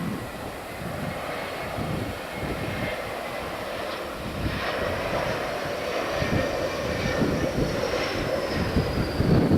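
Jet airliner's engines, with a faint high whine that slowly falls in pitch over the second half, the engine noise growing louder toward the end.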